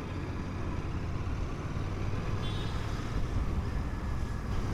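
Steady low engine and road noise of a motorcycle being ridden through city traffic.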